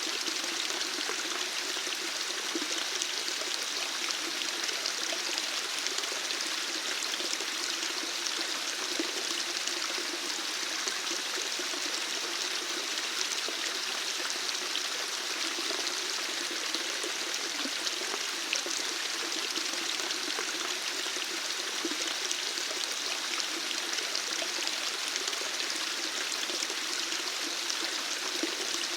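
Flowing water running steadily, an even rush with a trickling texture that does not change.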